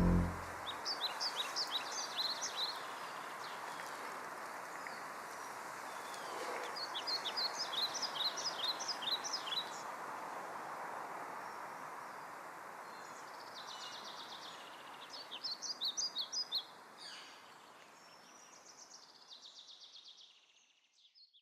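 Songbird singing in several short bursts of quick high chirps, over a soft steady outdoor background hiss; the whole fades out near the end.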